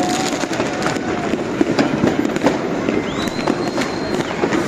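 Dense New Year's fireworks and firecrackers going off all around: a continuous crackle of many sharp bangs. A high whistle rises and then holds for about a second, starting about three seconds in.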